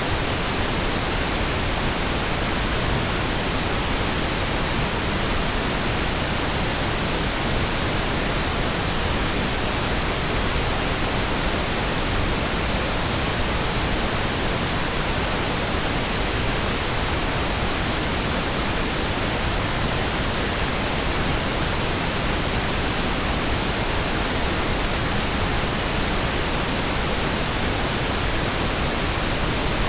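Synthetic pink noise: a steady, even hiss with no changes or interruptions.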